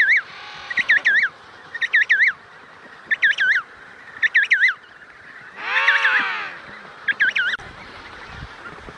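Penguins calling: quick groups of two or three chirps repeating about once a second, with one longer, louder honking call about six seconds in.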